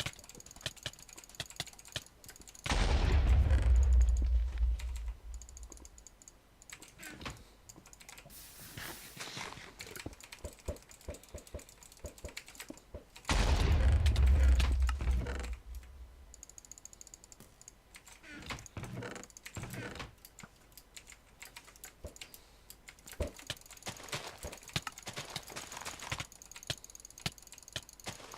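Irregular rapid clicking and tapping. Twice it is drowned by a loud low rumble lasting a couple of seconds, near the start and about halfway through.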